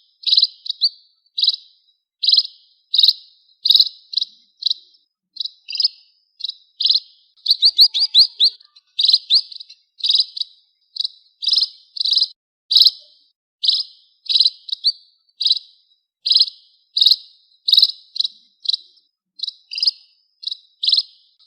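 A small bird calling over and over in short, sharp chirps, about one or two a second. Some calls break into quick rattling runs of downward-sweeping notes.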